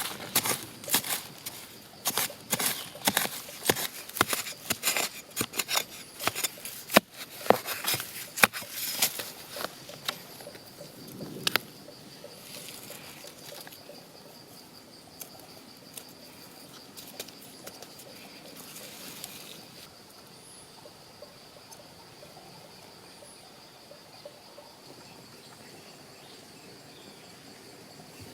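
A rapid, irregular run of sharp knocks and rustles for about the first twelve seconds, then quieter, with a steady high insect trill, a cricket, going on to the end.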